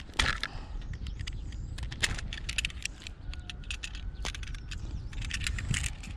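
Irregular metallic clicks and rattles of hardware being handled, over a steady low rumble.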